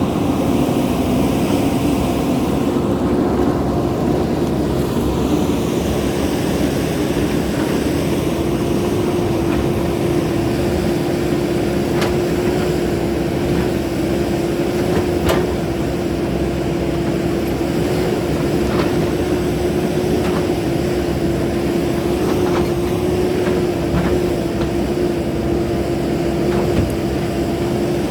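Machinery running steadily with a constant hum on one tone, and several short sharp knocks scattered through the second half.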